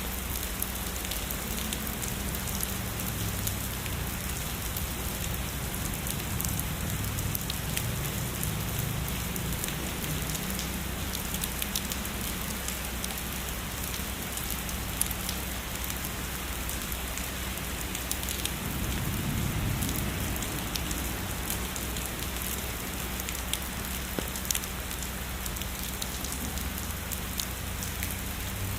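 Heavy rain falling steadily, an even hiss with many individual drops ticking and splashing on a surface. A low rumble swells and fades beneath it, most plainly about two-thirds of the way through.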